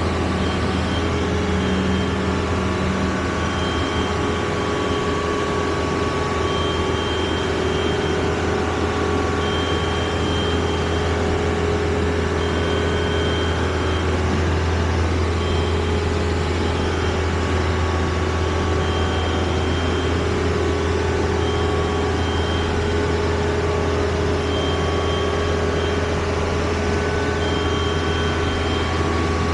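An engine or motor running steadily, a continuous low drone with no change in speed.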